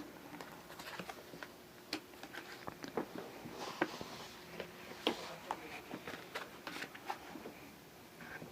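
Oracle cards being shuffled and handled: a scatter of light, irregular card flicks and taps.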